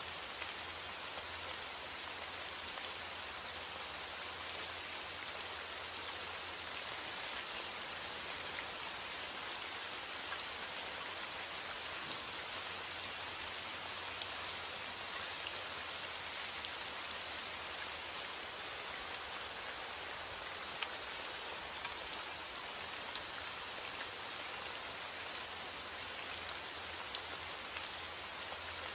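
Steady rain falling, an even hiss with scattered sharp drop taps throughout.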